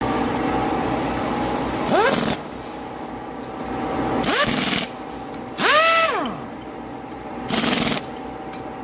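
Ford Grand Marquis engine running with four short throttle blips. Each blip brings a rising whine, and the third rises and then falls back.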